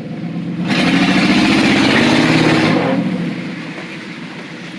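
1991 Chevy 1500 pickup's engine revving hard as the truck is driven into a mud hole, with a loud rushing noise over it. The engine pulls for about two seconds, then eases off.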